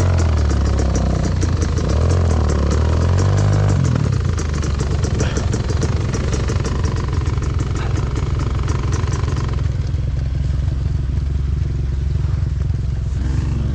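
Enduro motorcycle engine running, revving up and down for the first four seconds or so, then holding a steady pace.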